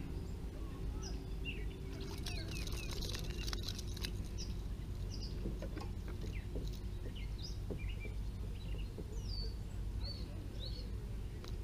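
Birds chirping, with many short separate calls scattered throughout over a steady low background noise. A few short clicks come about two to four seconds in.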